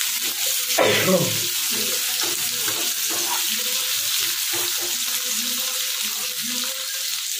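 Potato wedges and sliced onions sizzling in hot oil in a nonstick kadai, stirred with a wooden spatula that scrapes through them, with a louder stir about a second in.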